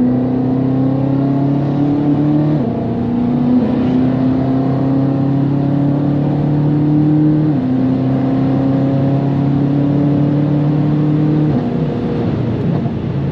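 BMW M5 F90's twin-turbo V8 pulling under about half throttle. The revs climb slowly in each gear, with four upshifts, each a sudden drop in pitch, the last one near the end.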